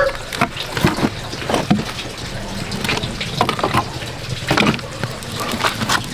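Water splashing and sloshing in irregular short bursts, as of something being handled or washed in water.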